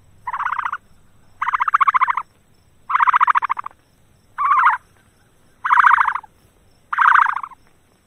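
An animal's rapid rattling call, given six times in bursts of under a second, about a second and a half apart.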